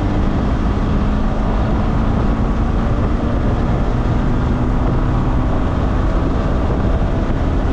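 Morgan sports car's engine running hard on track, heard from on board with the noise of the car's passage around it; the engine note eases slightly near the start and then holds steady.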